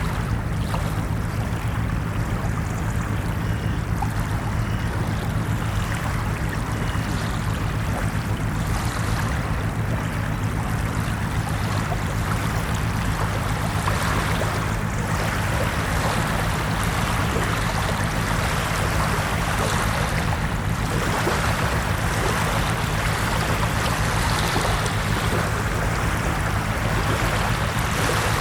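Ocean surf washing onto a beach in a continuous wash, swelling gently every few seconds over a steady low rumble.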